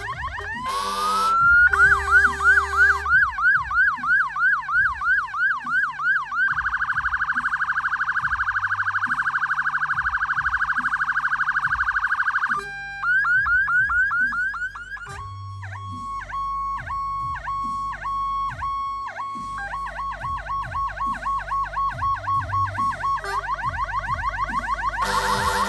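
Fire-engine electronic siren running through its tones. It starts with a quick rising wail, then a yelp of about three sweeps a second, then a very fast warble. In the middle it holds a steady tone, returns to the yelp, and rises again at the end.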